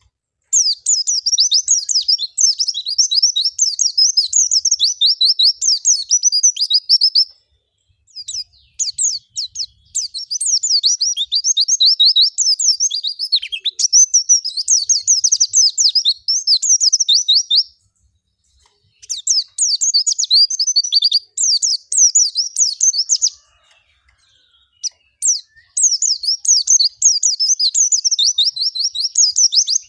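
Pleci (white-eye) singing: long runs of rapid, high twittering in four phrases, each several seconds long, broken by short pauses. This is the bird's full, non-stop song, used as a lure to draw a reply from a caged white-eye.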